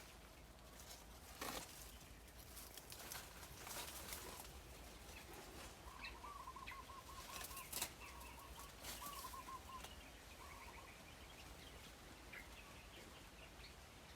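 Faint outdoor quiet with a small bird calling, a run of quick repeated notes about six to eight seconds in, and a few soft scattered rustles.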